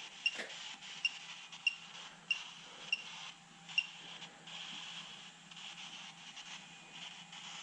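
Short, high electronic beeps, six of them about two-thirds of a second apart, stopping about four seconds in, over a faint steady hum.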